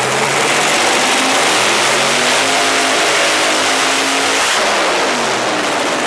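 Mazda 3 race car's 20B three-rotor rotary engine at full throttle, a harsh, loud note that climbs slowly in pitch for about four and a half seconds, then falls away.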